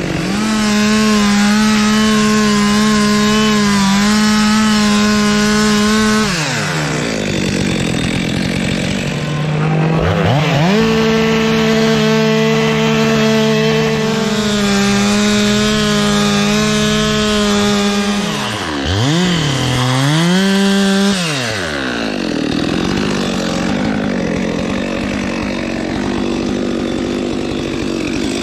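Two-stroke chainsaw cutting wood at full throttle, with a high steady engine note. It drops back to a lower, rougher running speed about six seconds in, revs up again around ten seconds, dips and recovers briefly near nineteen seconds, then falls back to the lower speed for the last several seconds.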